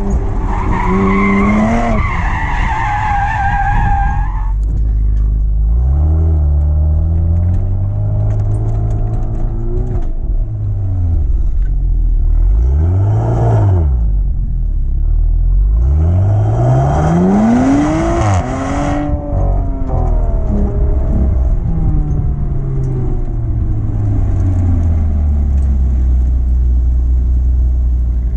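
Audi TT race car engine revving hard, its pitch climbing and dropping sharply with each change of gear and throttle. Tyres squeal loudly in the first few seconds and again about two-thirds of the way through, and more briefly in between.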